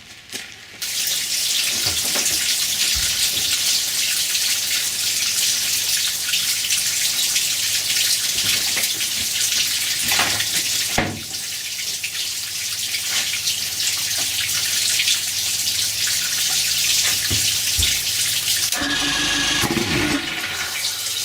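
Garden hose running water steadily through a flush adapter into an outboard motor's lower unit, a continuous hissing rush, supplying cooling water so the rubber water-pump impeller is not run dry. A short lower-pitched sound joins it about two seconds before the end.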